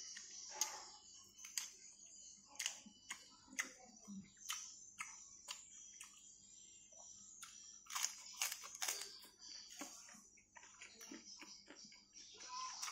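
Close-up chewing of raw napa cabbage (sawi putih) leaves with rice: irregular crisp crunches and mouth sounds, a few a second.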